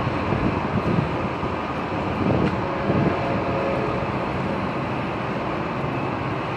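An approaching train running along the tracks, heard as a steady noise.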